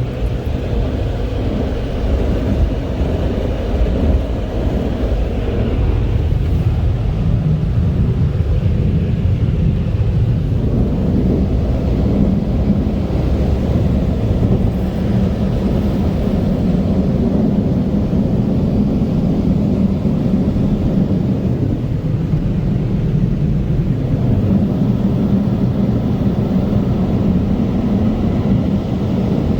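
Tech 21 car wash blower dryers running, a loud steady rush of air with a low hum underneath.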